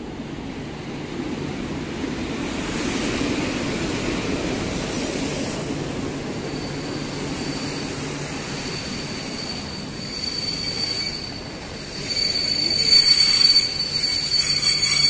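Locomotive-hauled Intercity passenger train pulling into an underground station platform: a low rumble of wheels on rail builds as it arrives, then a high steady squeal sets in as it slows, loudest near the end.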